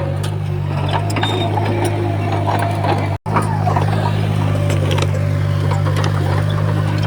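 Crawler bulldozer's diesel engine running steadily, with scattered clanks and squeaks from the tracks and blade; the sound cuts out for an instant about three seconds in.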